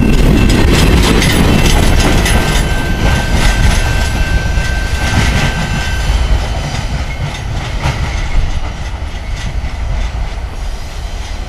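Freight train rolling past, its wheels clacking over rail joints with a steady low rumble, and a thin wheel squeal for a few seconds. The sound slowly fades as the train moves on.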